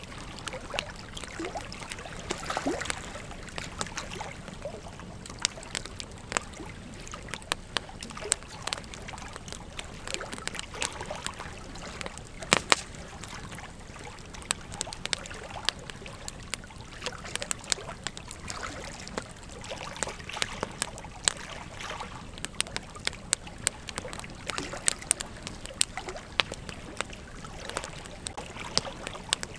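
Campfire crackling: a dense run of irregular snaps and pops over a steady hiss, with one louder pop about twelve seconds in.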